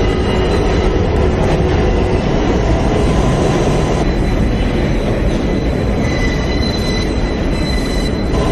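New York City Subway J train running between stations, heard from inside the car: a steady loud rumble of wheels on the rails with a thin, high wheel squeal held over it.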